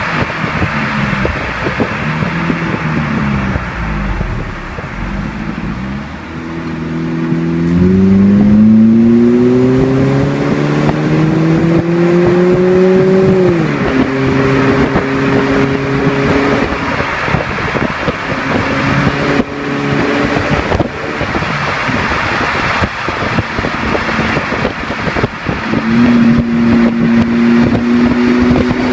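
2009 Chevrolet Cruze engine with an aftermarket Friedrich dual exhaust being revved. The pitch wavers at first, climbs steadily for several seconds from about a quarter of the way in, then drops sharply back and holds. It rises again near the end.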